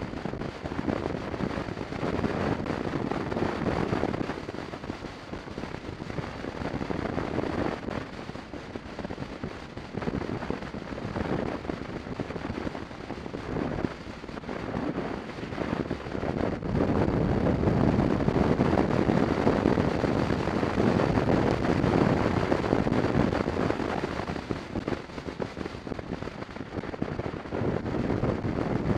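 A BMW 650 GS motorcycle being ridden, its engine under wind buffeting on the camera microphone that surges and eases every few seconds and grows louder about two-thirds of the way through.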